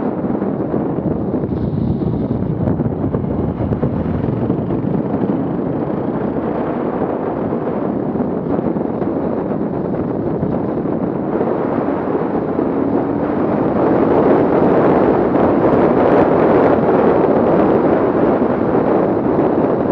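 Off-road vehicle engine running, mixed with wind noise on the microphone, growing louder about two-thirds of the way through.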